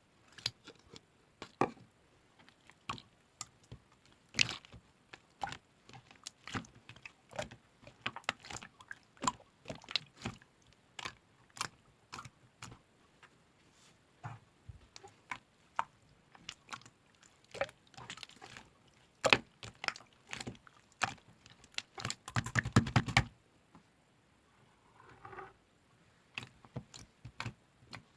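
Clear slime with small coffee-themed charm parts being pressed and poked by hand, giving irregular sticky clicks and pops, with a quick run of crackling pops about three-quarters of the way through.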